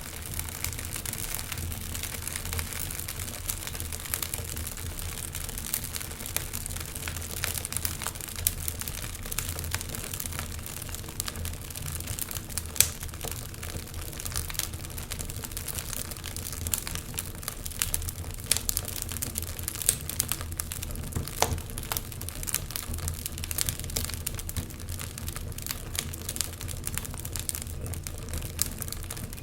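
Wood fire crackling steadily with dense, irregular sharp pops, a few louder ones standing out, the loudest about 13 seconds in.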